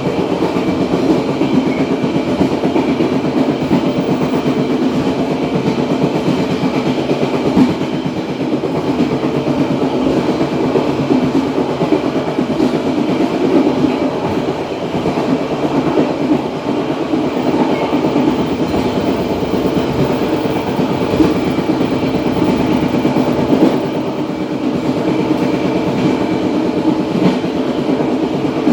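Passenger train cars running along the track: a steady rumble and rattle of steel wheels on rail.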